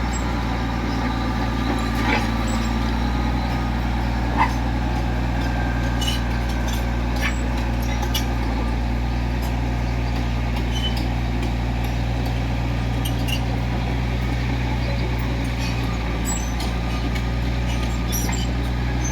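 Komatsu D65EX bulldozer's diesel engine running steadily, with a few short sharp clinks over it, the clearest about two and four and a half seconds in.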